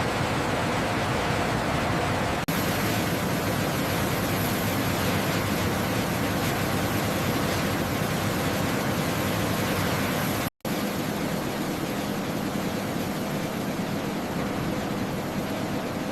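Steady rushing noise of aircraft running on the flight line, with a faint high whine that comes in about two and a half seconds in. The sound cuts out completely for a moment about ten and a half seconds in.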